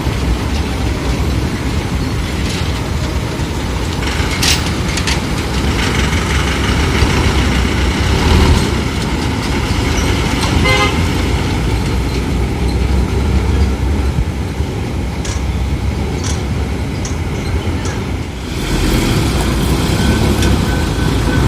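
Heavy truck's diesel engine running in road traffic, with a short horn toot about halfway through. The sound changes abruptly about three quarters of the way in, after which a thin high tone sounds near the end.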